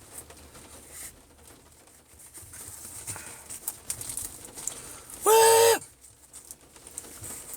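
A man's loud, held "woo!" shout about five seconds in, one steady pitch dropping at the end, over faint low background sound.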